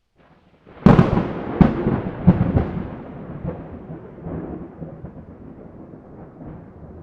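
Thunder: a sharp crack about a second in, three more cracks over the next two seconds, then a rolling rumble that slowly fades.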